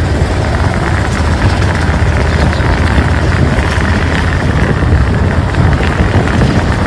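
Motorcycle running steadily on the move, its engine and road noise blending into one continuous loud rumble.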